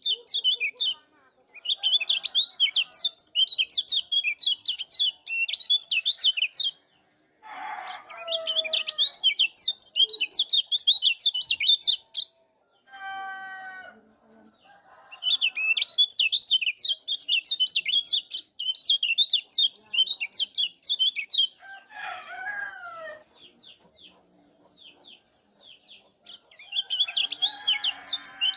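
Kecial kuning, a white-eye, giving fast high chirping 'ciak' calls in bursts of several seconds with short breaks. A few lower-pitched calls from another bird come in between.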